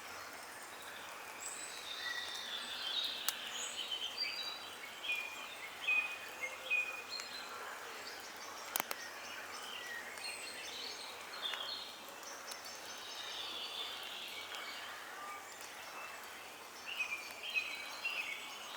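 Songbirds singing in woodland, many short whistled and chirping phrases overlapping, over a faint steady background hiss. A single sharp click sounds about nine seconds in.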